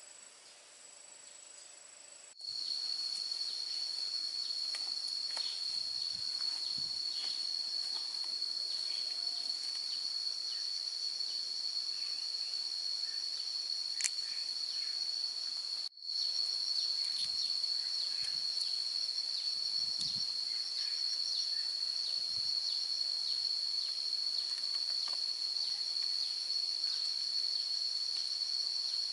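Insect chorus making a steady high-pitched drone, which comes in abruptly about two seconds in after a quieter stretch and drops out for a moment just before the halfway point. A few faint low thumps sound underneath.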